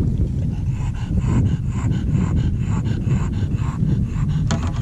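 A bulldog panting hard and fast, about four to five breaths a second, worked up with excitement.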